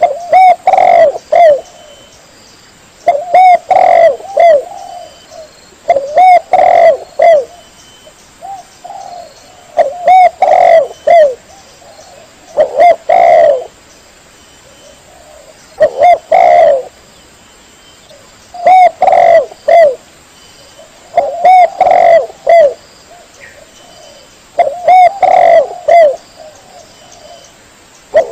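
Spotted dove (tekukur) cooing: a phrase of a few low coos, repeated about every three seconds.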